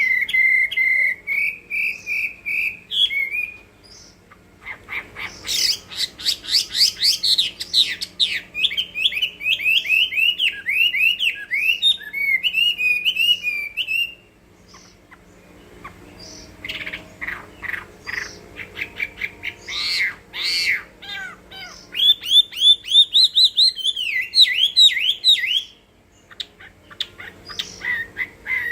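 Chinese hwamei (melodious laughingthrush) singing loud, varied phrases of fast repeated notes and sweeping whistles, with brief pauses between phrases.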